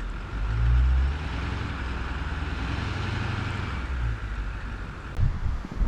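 Ford 6.4 Power Stroke V8 turbodiesel running under load in snow, a deep low rumble that swells about half a second in and then holds steady with a hiss over it. A few thumps near the end.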